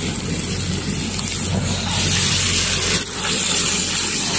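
Garlic, green chilies and then pieces of fish frying in hot oil in a pan, a steady sizzle that grows louder about halfway through.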